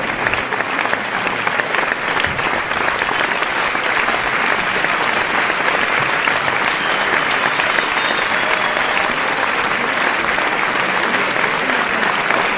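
A crowd applauding: dense, steady clapping from many hands that keeps going without a break.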